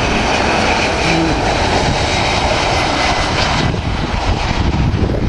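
Airbus A330 airliner's jet engines running on landing, a steady loud roar; the higher part of the noise drops away about three and a half seconds in.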